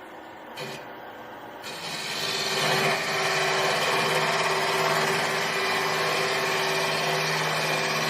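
A wood lathe's motor runs with a steady hum. From about two seconds in it grows louder, with a rougher rushing noise over the hum, as a tool or abrasive works the spinning yew.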